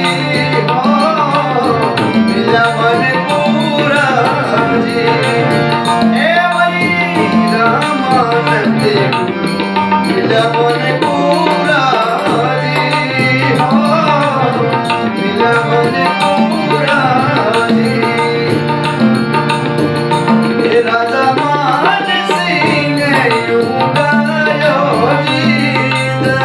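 Rajasthani bhajan music: a hand drum keeps a steady rhythm under a melody line that bends and slides in pitch, over a low sustained bass note that shifts every second or two.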